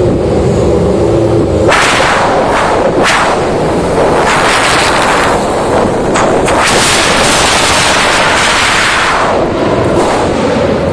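1989 Lotus Formula One car's Judd V8 engine idling, then revved hard several times with sharp cracks from the exhaust. It is held at high revs for a few seconds before dropping back to idle near the end.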